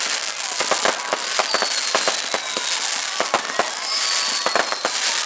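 A fireworks display: rapid, irregular bangs and crackles of bursting shells, with a few long, thin, high whistles falling slightly in pitch.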